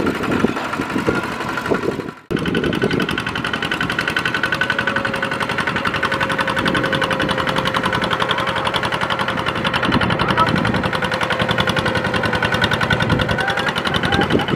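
Kubota RT155 single-cylinder diesel engine of a walking tractor running with a rapid, steady chugging. The sound cuts out for a moment about two seconds in, then carries on.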